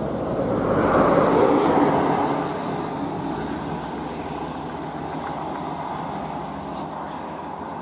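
A heavy truck driving past, its engine and road noise swelling to a peak about a second in and then fading, over a steady drone of traffic.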